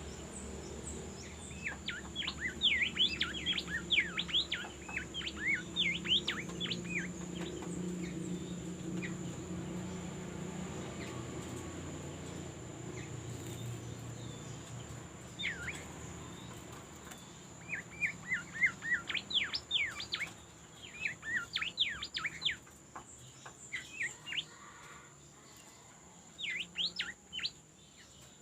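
Small songbird known in Indonesia as a 'bimoli' singing in bouts of quick, sharp twittering chirps, four phrases separated by pauses. A steady high-pitched tone runs underneath.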